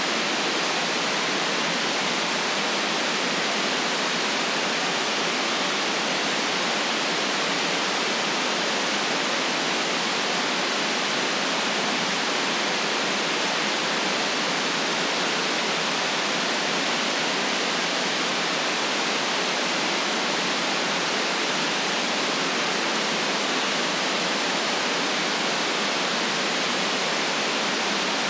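Steady, unchanging white noise: an even hiss with no bass rumble and no very high top, holding the same level throughout.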